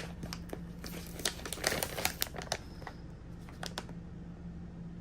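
Plastic treat bag crinkling and crackling as it is handled and opened, with a run of sharp crackles over the first two and a half seconds and a few more later.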